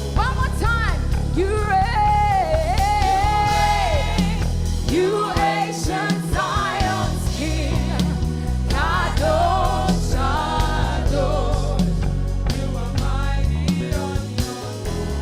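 Gospel band music with a lead singer's voice bending and sliding in long runs over bass and drums.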